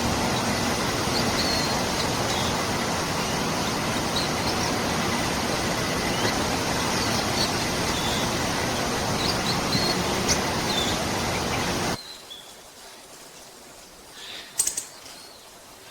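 Wild birds giving short high chirps over a steady, loud rushing noise. The noise cuts off abruptly about twelve seconds in, and a few more bird calls follow against a quiet background.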